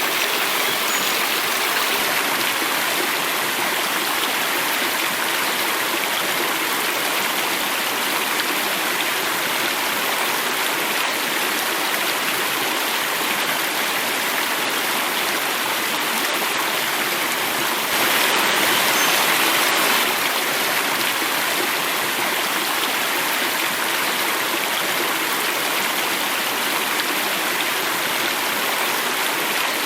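Flowing water falling in a small cascade, a steady even rush, a little louder for about two seconds past the middle.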